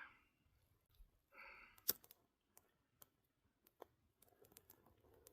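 Near silence, broken by a few faint sharp clicks, the clearest about two seconds in, and a short soft breath just before it.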